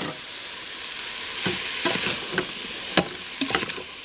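Turkey pieces and diced vegetables sizzling in the hot stainless inner pot of a Cosori electric pressure cooker on sauté, stirred with a spoon, with a few short clicks of the spoon against the pot.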